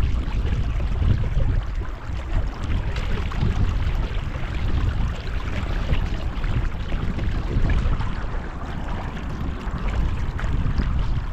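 Wind buffeting the microphone, with water sloshing against a kayak's hull: a steady rumbling noise that rises and falls.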